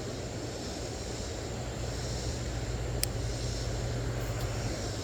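Steady low engine drone, slowly growing louder, with a faint high insect buzz behind it and a single light click about three seconds in.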